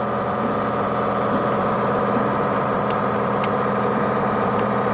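Diesel engine of a Tigercat 726B feller buncher running steadily, with a few faint clicks about three and four seconds in.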